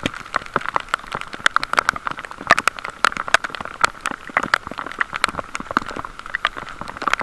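Heavy rain shower, drops striking close to the microphone in a dense, irregular run of sharp ticks over a steady hiss.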